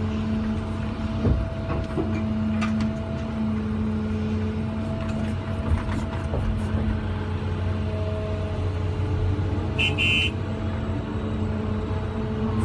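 Vehicle engine running steadily, a constant droning hum heard from inside the cab, with one short high beep about ten seconds in.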